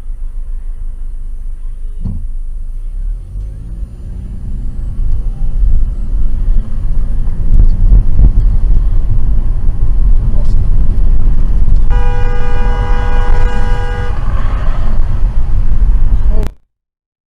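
Low rumble of a car driving, picked up by a dashcam, growing louder about four seconds in. A car horn sounds for about two seconds near the end, and the sound cuts off suddenly.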